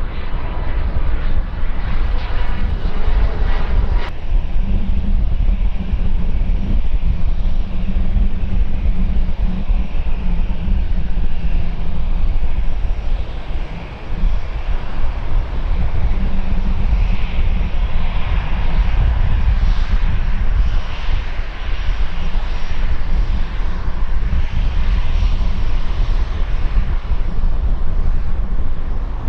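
Airliner engines running loud as an aircraft moves on the runway, a continuous rushing noise over a deep rumble, with a brief dip in loudness about halfway through.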